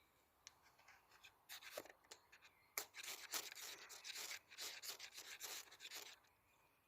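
Close rustling and crinkling handling noise: a dense run of short scraping rubs lasting about four seconds, starting about a second and a half in.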